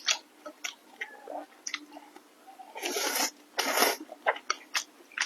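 Close-up mouth sounds of a person eating glass noodles: wet chewing and biting, a string of short clicks, with two longer noisy sounds of about half a second each a little after the middle.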